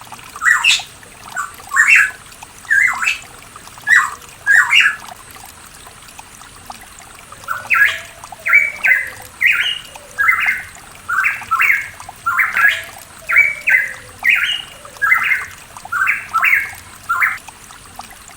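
Pitohui singing: short, loud notes given in pairs, then after a pause of a couple of seconds a long run of evenly spaced notes, roughly two a second, over a faint steady trickle of water.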